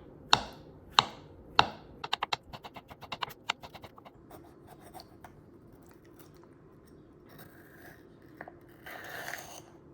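Kitchen knife slicing a vegetable on a cutting board: three sharp chops about two-thirds of a second apart, then a quick run of lighter cuts, followed by soft scraping and rustling near the end.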